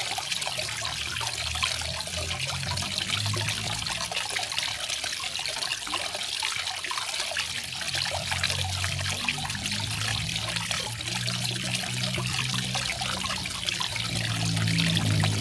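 Water of a small garden waterfall trickling and splashing steadily, with an uneven low rumble of falling water beneath.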